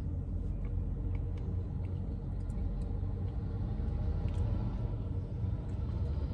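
Steady low rumble, with a few faint, light clicks scattered through it.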